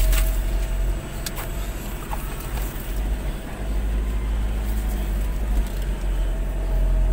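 Low, steady rumble of a vehicle's engine and road noise heard from inside a moving vehicle on a rough farm track, easing off for a couple of seconds about a second in. A few short knocks or rattles are heard.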